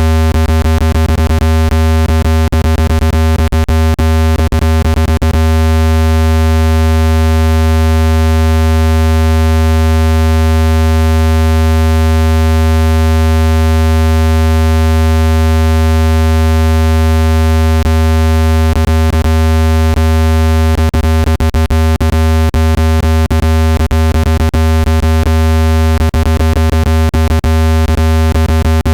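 Loud synthesized low-pitched tone for shaking dust out of a phone speaker, held steady at one pitch with a buzzy stack of overtones. Runs of sharp clicks come through it in the first few seconds and again in the second half.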